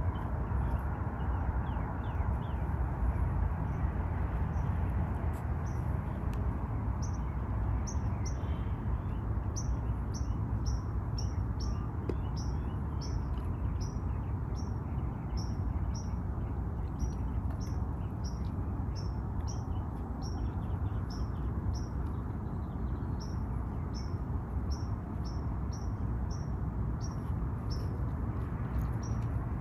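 A bird repeating a short, high, falling chirp about one and a half times a second, starting several seconds in and going on steadily. Under it runs a steady low rumbling noise.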